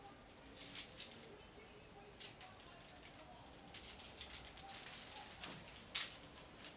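Metal climbing gear, carabiners and cams, clinking and jingling as it is handled and sorted: scattered light clinks, a quick run of them about four seconds in, and the loudest single clink about six seconds in.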